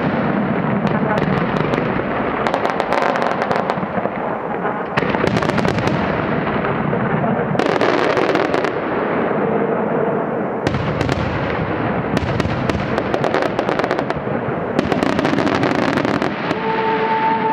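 Aerial firework shells bursting in a dense, continuous barrage, with fresh clusters of sharp bursts every one to three seconds. Music with long held notes comes in near the end.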